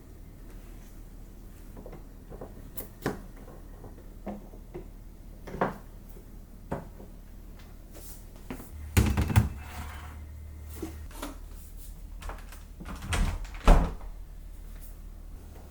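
Household handling noises: a scattering of light clicks and knocks as things are moved and set down, with louder thumps about nine seconds in and again near the end, like a cupboard or fridge door or container closing.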